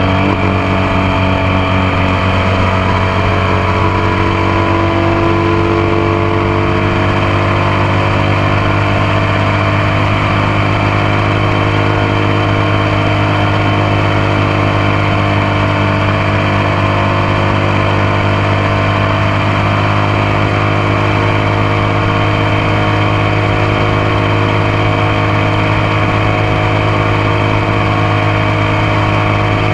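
Motorcycle engine running under way, heard up close. Its pitch eases down over the first few seconds, then holds a steady cruise.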